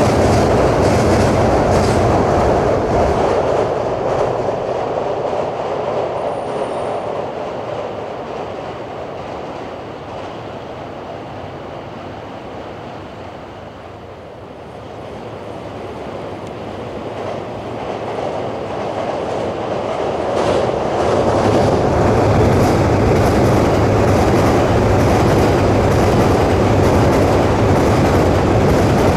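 JR East E231-series electric commuter trains crossing a steel truss railway bridge, with a rumble and wheel clatter. The first train fades to a low point about halfway through, then a second train comes on and is loud again for the last third.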